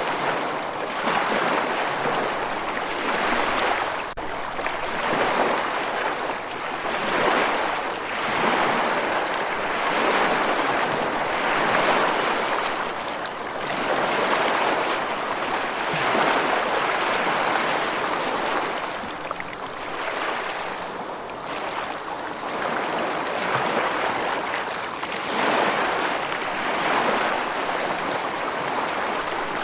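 Rushing water: a steady wash of noise that swells and eases every couple of seconds.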